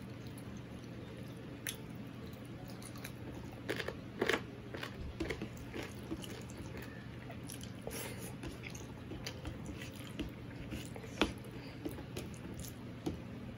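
A person chewing a mouthful of rice and curry eaten by hand, with scattered short clicks and smacks, busiest about four seconds in and with a sharp one about eleven seconds in, while fingers mix rice on a steel plate.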